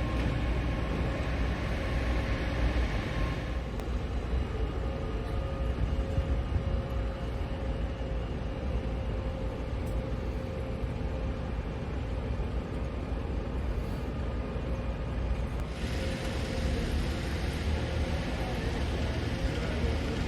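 Outdoor street ambience: a steady rumble of road traffic with wind on the microphone. A higher hiss drops away about four seconds in and comes back near the end.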